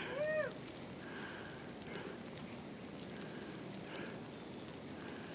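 Quiet outdoor air during heavy snowfall: a faint, even hiss. A short, faint voice sounds right at the start.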